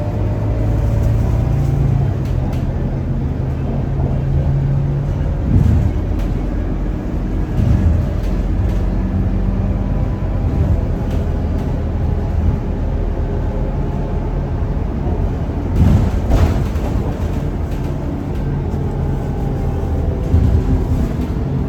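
Scania K230UB city bus's five-cylinder diesel engine running under way, heard on board. Its steady pitch shifts a few times as the bus pulls and eases off, with several short knocks from the body and suspension.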